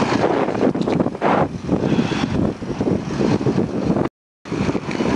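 Highway traffic and wind rushing over a body-worn camera's microphone as a steady, crackling noise, broken by a short dropout about four seconds in.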